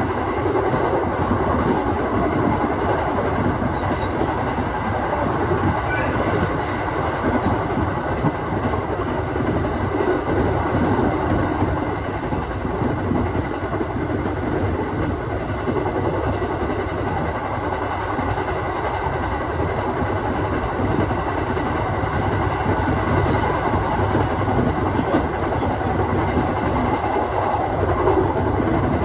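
Aoimori Railway 701 series electric multiple unit running steadily along the line, a continuous rumble of wheels on rail and running gear.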